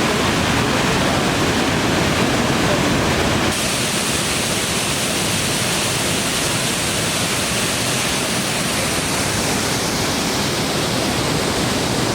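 Waterfall rushing steadily down a gorge, a dense hiss of falling water. About three and a half seconds in the rush changes abruptly, becoming slightly quieter and brighter.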